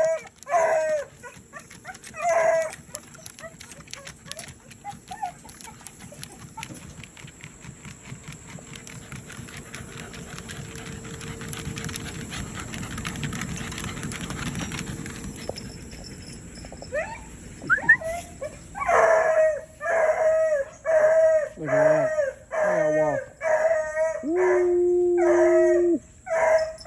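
Hunting hound barking and bawling in a loud, steady run of short repeated barks, with one longer, lower bawl near the end. There are a few barks near the start and a stretch of low steady background noise between them.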